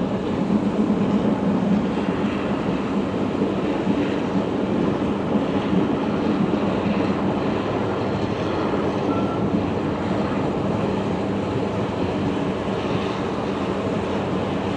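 Passenger train running along at speed, heard from inside the carriage: a steady rumble of the moving train with no break or change.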